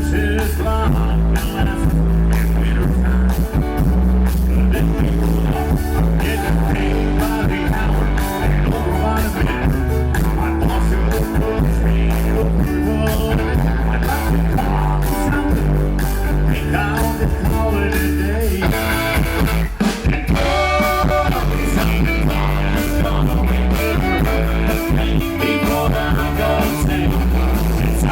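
Band music with guitar over a steady beat, in a rock and blues style.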